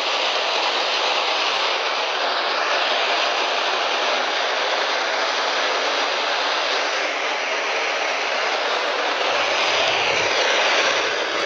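Loud, steady hiss of static from a ghost-hunting 'spirit box' style app sweeping for voices, with a few soft low thuds about ten seconds in.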